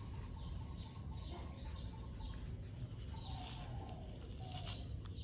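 Faint, repeated short high chirps of birds over a steady low rumble.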